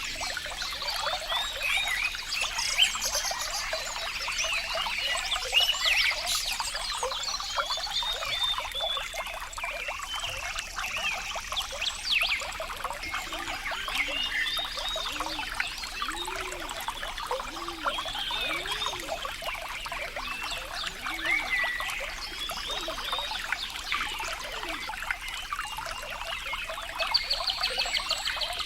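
Trickling water with a dense, continuous chorus of small animal chirps over it, and a run of low repeated calls in the middle.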